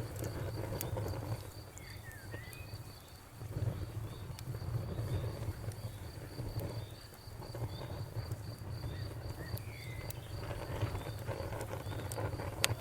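Wood fire burning with a low rumble and scattered sharp crackles, one louder pop near the end. Crickets chirp steadily in an even high pulse behind it.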